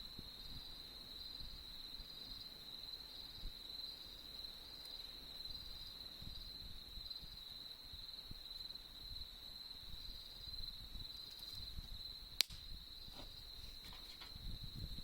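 Crickets trilling steadily in a high chorus with a regular pulse, and a single sharp pop about twelve seconds in.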